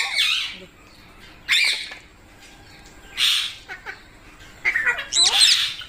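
Pet green parrot giving harsh squawking calls in several separate bursts, ending in a quick run of calls near the end, as it scolds another parrot.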